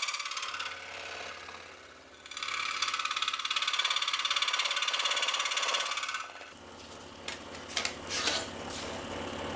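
A small electric shop power tool working the sheet-metal end pieces. A run ends about half a second in, and a second steady run of about four seconds follows. After it come a few light clicks and knocks of the metal part being handled.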